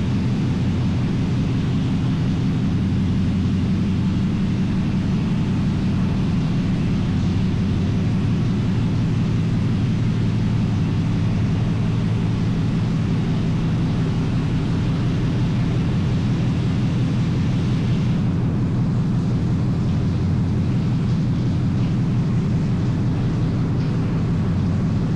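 Steady low engine drone with a hiss above it, which thins out about 18 seconds in.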